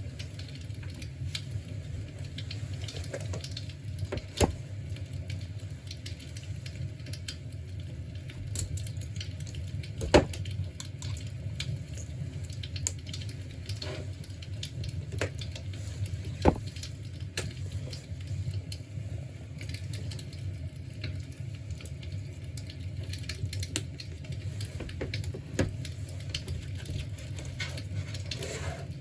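Imitation fireplace giving off a fire-crackle sound: scattered sharp pops and crackles, a few louder ones, over a steady low hum.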